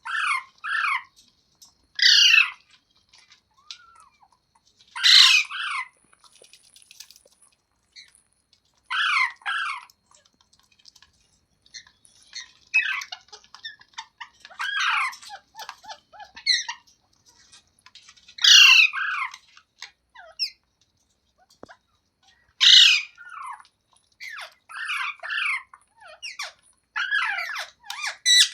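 Pet green parrot, a rose-ringed (Indian ringneck) parakeet, squawking and screeching in loud short calls every few seconds, with softer chattering in between.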